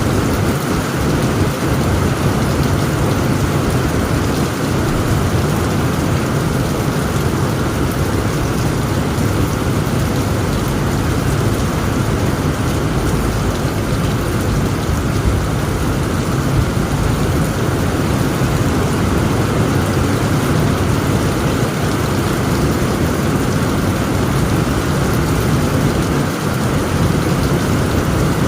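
Heavy rain pouring steadily on a tent roof, an even hiss with a continuous deep rumble underneath.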